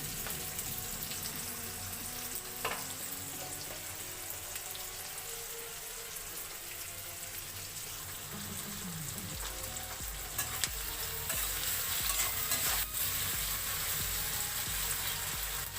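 Chopped onions sizzling steadily in hot oil in a pan, with a few sharp clicks of a spatula against the pan as they are stirred. The onions have just been salted so they soften faster.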